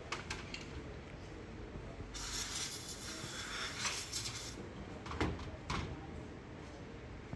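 A hiss of spray lasting about two and a half seconds while a throttle body is being cleaned, with a few sharp clicks and knocks of parts being handled before and after it.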